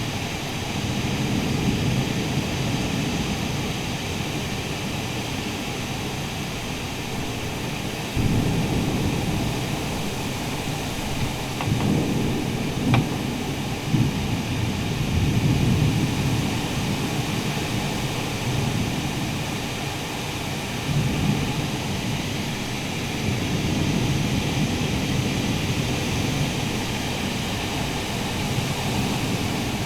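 Thunderstorm wind blowing hard in a steady rush that swells in heavy gusts several times, strongest through the middle, with a couple of sharp knocks about halfway.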